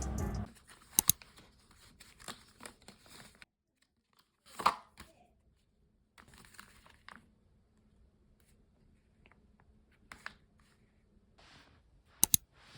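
Quiet kitchen handling sounds during food preparation: intermittent rustling and crinkling, with a couple of sharp double clicks, about a second in and again near the end.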